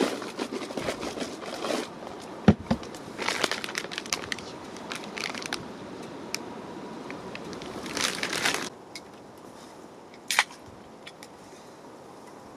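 Plastic food packaging crinkling and being crushed in the hands in three bursts, with a sharp knock about two and a half seconds in and a short click near the end.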